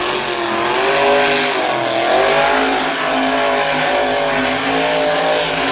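Monster truck engine revving, its pitch rising and falling, loud and steady.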